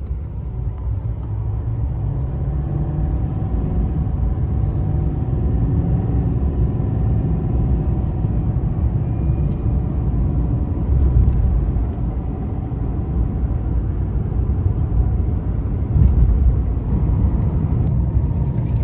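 GMC pickup truck on the move: a steady low rumble of engine and road noise.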